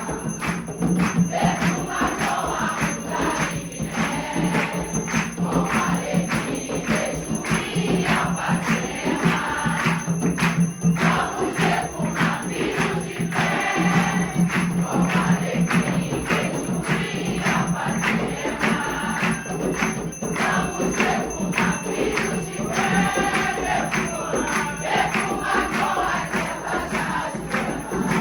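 A group of voices singing a chant together over a steady percussion beat with jingling bells or shakers.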